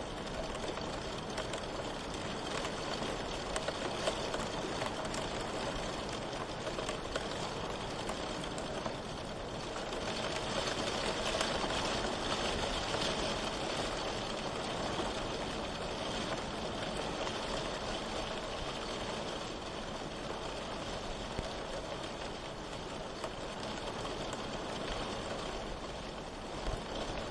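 Steady rain falling, a continuous hiss that swells a little about ten to fourteen seconds in.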